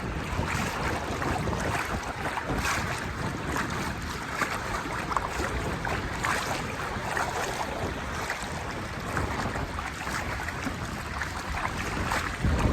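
Wind buffeting the microphone over the steady wash of small waves in shallow sea water.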